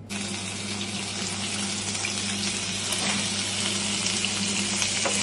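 Carabinero (scarlet prawn) heads searing in hot oil in a pan over high heat: a steady sizzle with small crackling pops, over a steady low hum.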